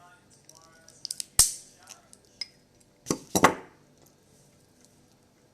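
Hard clinks and knocks of tableware: one sharp one about a second and a half in, then a louder cluster of three a little past three seconds in, with a few small ticks between.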